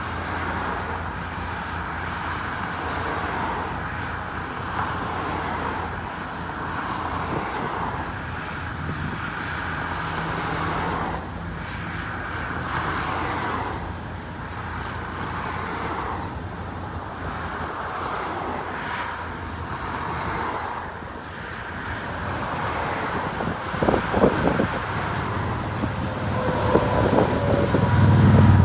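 A steady stream of cars driving past one after another, their tyre and engine noise swelling as each goes by. A louder, deeper engine passes near the end.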